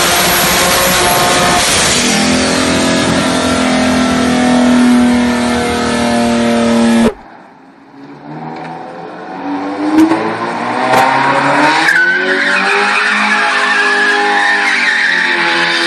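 A car engine running at high revs with tyre noise, cut off abruptly about seven seconds in; then another car engine revs up, rising in pitch, with a few sharp clicks, and holds loud at high revs.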